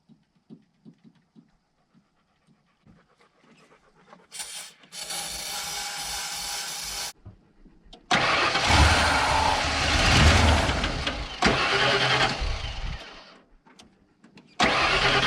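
Ford 302 V8 being cranked by the starter in several bursts, the longest about five seconds, without firing. The fuel pump runs but no fuel reaches the engine.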